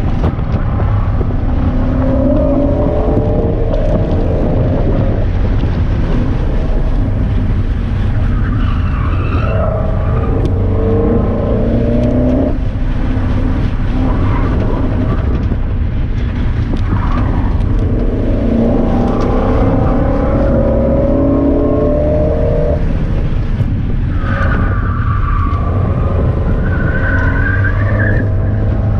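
A car engine accelerating hard on a race circuit, its pitch climbing through each gear and dropping at the shifts, several times over, over a steady heavy low rumble.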